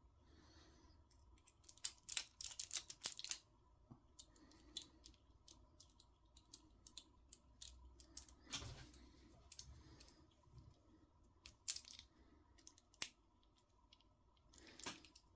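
Light clicks and taps of small hand tools and RC car steering parts being handled, with a quick run of clicks about two to three seconds in and a soft knock near the middle.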